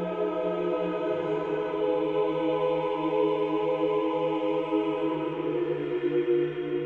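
Background choral chant: a choir holding long notes over a low drone note, which steps down slightly about a second in.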